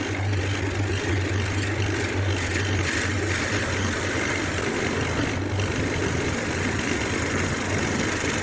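A woodworking machine running steadily, a constant low motor hum under an even hiss.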